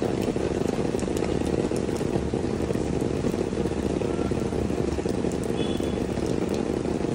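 Steady rain falling on pavement: an even hiss with scattered sharp drop ticks.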